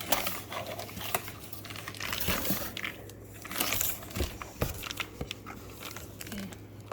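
Packaging being handled during an unboxing: crinkling and rustling with scattered sharp clicks and knocks, over a faint steady low hum.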